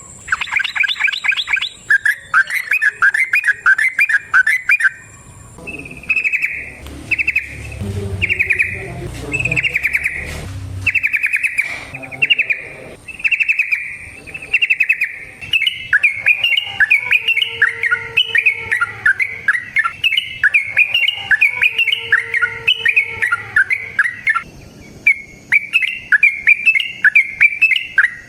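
Yellow-vented bulbul (trucukan) singing its long, rapid bubbly song: chattering phrases repeated one after another without a break. A low rumble sits under the song for a few seconds about a quarter of the way in.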